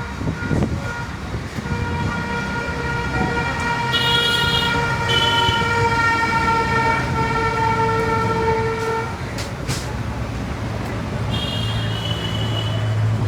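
Busy street traffic with vehicle horns: one horn held steadily for about seven seconds, shorter higher-pitched horns sounding over it twice, and engines running underneath.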